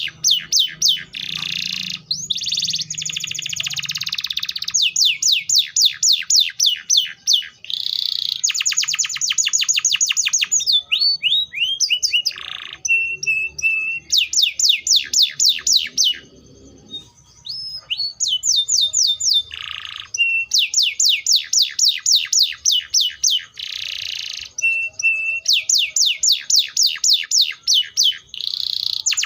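Canary singing a long, loud song made of rapid trills: series of quick, high, falling notes repeated many times a second, changing to a new phrase every second or two, with short buzzy rolls between them and a brief break about two-thirds of the way through.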